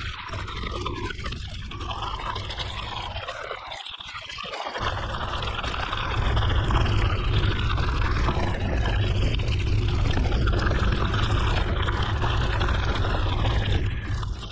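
Mountain bike riding a forest road: wind buffeting the microphone with a heavy low rumble, over steady tyre and ride noise. It dips briefly about four seconds in, then grows louder.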